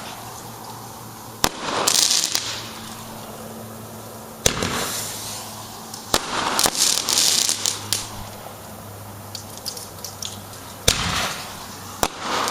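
Neighbourhood fireworks going off: about five sharp bangs a few seconds apart, most followed by a second or so of hissing crackle.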